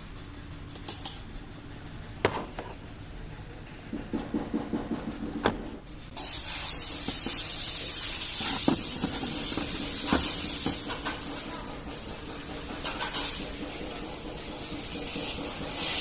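Tata vehicle's engine running steadily with scattered clicks. About six seconds in, a loud steady hiss starts suddenly and continues.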